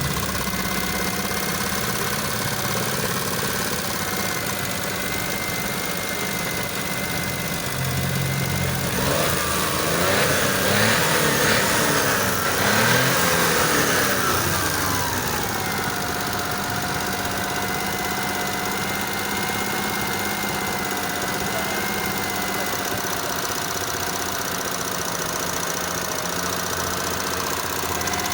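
Suzuki F6A 12-valve three-cylinder engine idling steadily. About nine seconds in it is revved in a few rising and falling blips for several seconds, then drops back to idle.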